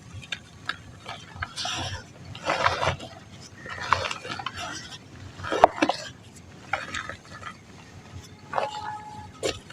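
Dry mud lumps crumbling and crunching, in irregular bursts of crackle and gritty crunches with the loudest crunch a little past halfway.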